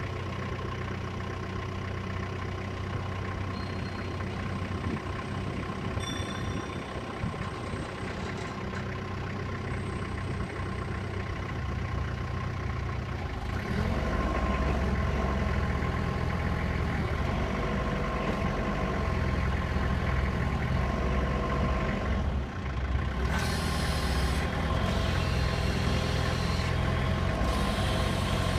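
Isuzu engine of a 3-ton forklift running steadily, getting louder about halfway through as it picks up revs. A hiss comes and goes over the last few seconds.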